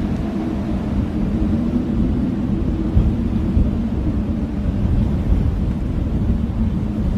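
Blizzard wind howling: a steady low rumble of gusts with a moaning tone running through it.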